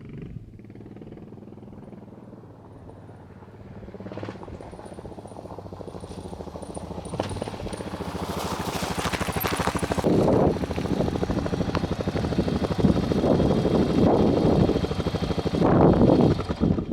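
Yamaha XT 600 K's single-cylinder four-stroke engine running with an even pulsing beat. It grows louder over the first half, then stays loud with several surges of revs.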